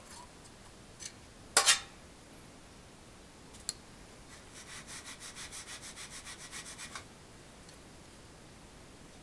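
A sharp double knock, a click, then a quick rhythmic rubbing, about six strokes a second for two to three seconds, as kenaf-powder oil absorbent is shaken out over oil on water.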